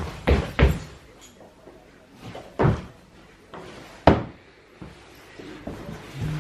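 A door being opened and shut: a few sharp knocks and thuds, two close together at the start, then one about two and a half seconds in and another about four seconds in.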